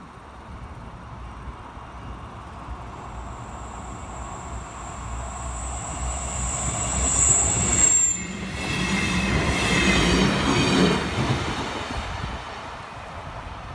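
Electric commuter train on narrow-gauge track approaching, its wheels giving a high steady squeal that grows louder and cuts off suddenly about eight seconds in. Then an electric train passes close by, with a rumble and a whining motor tone, and fades near the end.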